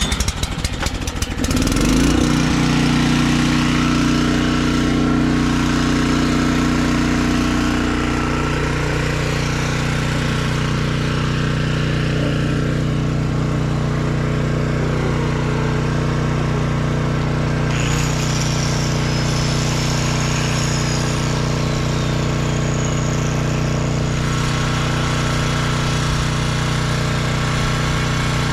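An engine cranks and catches, revs briefly about two seconds in, then runs steadily.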